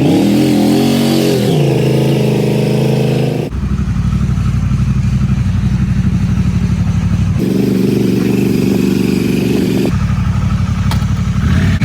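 Motorcycle engine running, with a quick throttle blip that rises and falls in pitch about a second in. The engine sound changes abruptly a few times, as if cut between takes.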